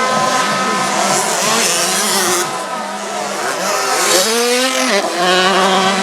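Several 65cc two-stroke motocross bikes racing, their engines revving over one another. One engine climbs in pitch and drops off sharply about five seconds in, as when a rider shifts or rolls off the throttle.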